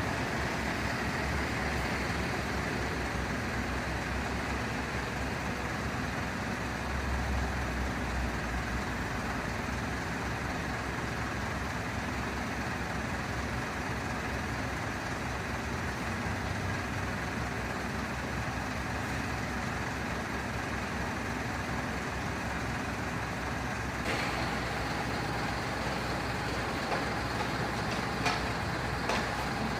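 Large truck's diesel engine idling steadily, with a few light clicks near the end.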